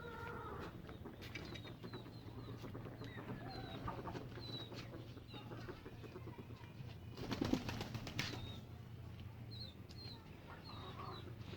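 Pigeons flapping their wings, with a loud flurry of wingbeats about seven seconds in, while small birds give short high chirps.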